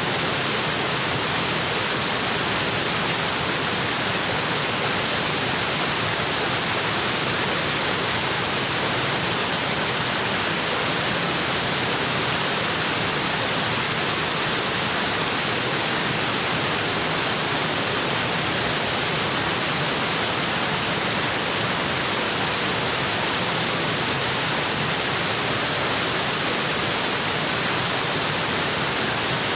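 Waterfall water falling onto rocks, a steady, even rush with no change.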